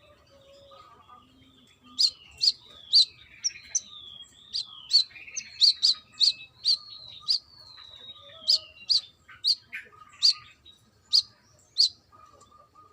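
Sunbird (Indonesian 'kolibri kelapa' type) singing: a lively run of sharp, high chips about twice a second, mixed with falling slurred whistles, starting about two seconds in.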